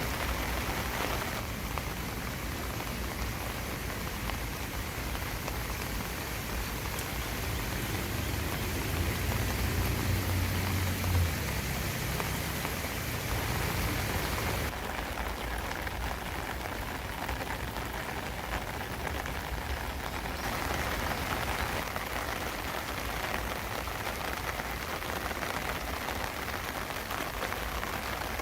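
Steady rain falling, an even hiss of many drops, with a brief low rumble about ten seconds in.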